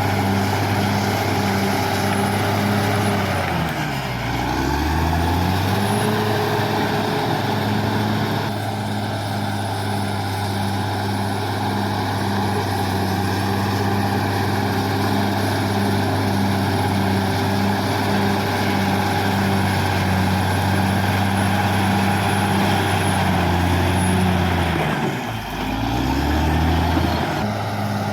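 Caterpillar D6R XL bulldozer's diesel engine running steadily with a regular pulsing about twice a second. Its pitch drops sharply and comes back up twice, about four seconds in and again near the end.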